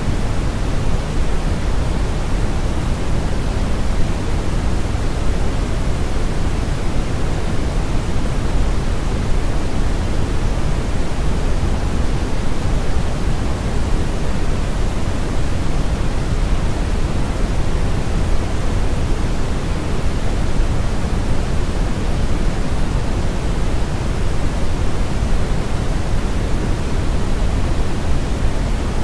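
Brown noise: a steady, even hiss weighted heavily toward the low end, like a deep rumble with little high-frequency content, unchanging throughout.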